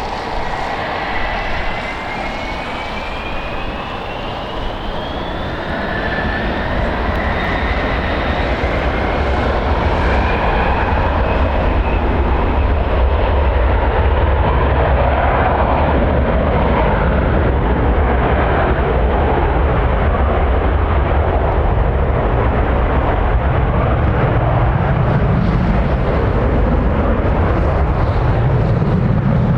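Jet airliner engines spooling up, their whine rising in pitch over the first several seconds, then a loud, steady roar with deep rumble that builds and holds, as under takeoff thrust.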